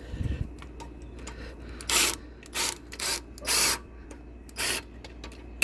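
Ratchet wrench with a 10 mm socket driving in the carburetor mounting bolts on a small engine: about five short bursts of ratcheting, one of them longer, between about two and five seconds in.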